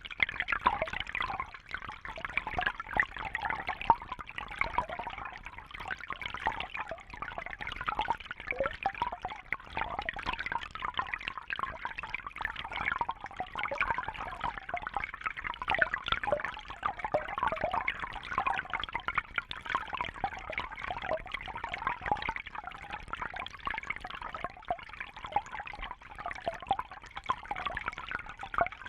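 Steady trickling, bubbling water: a constant patter of many small splashes and drips.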